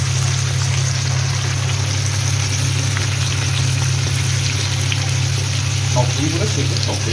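Yogurt-marinated chicken pieces sizzling steadily in hot ghee and oil in a kadai, over a steady low hum. A voice is heard briefly about six seconds in.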